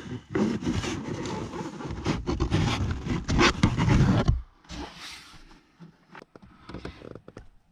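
Scraping and rustling handling noise, dense with small clicks, for about four seconds, then much quieter with a few light clicks.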